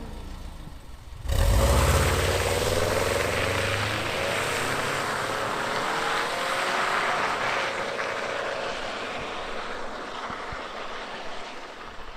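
1999 Subaru Forester's flat-four engine through unequal-length headers and a muffler-deleted exhaust, cutting in suddenly about a second in and accelerating with a rising pitch, then growing fainter over the last few seconds.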